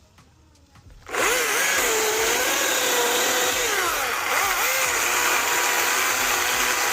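Husqvarna 225i battery chainsaw starting about a second in and sawing into a tree trunk, its motor whine dipping and recovering as the chain bites into the wood.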